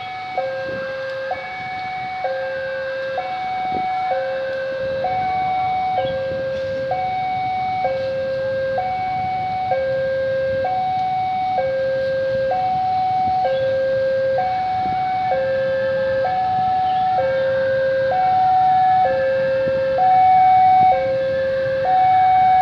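Indonesian railway level-crossing warning alarm sounding: an electronic two-tone signal alternating steadily between a higher and a lower note, each held just under a second, warning that a train is approaching.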